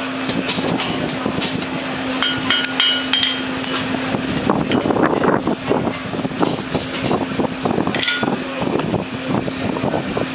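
Blacksmith's hammer striking hot metal on an anvil, repeated blows with a metallic ring on some strikes. A steady low hum runs underneath.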